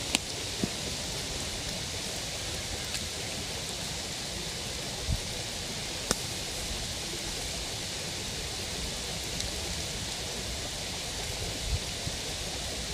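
Steady rushing of a river's flowing water, with a few sharp clicks and soft knocks over it.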